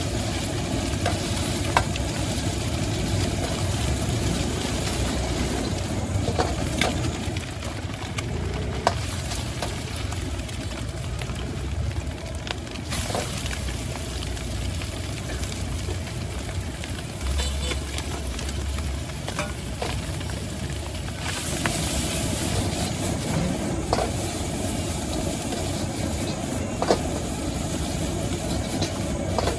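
Food sizzling in a hot wok as it is stir-fried, with a sharp clack of the metal spatula against the wok every few seconds. The sizzle turns brighter and louder a little over two-thirds of the way in.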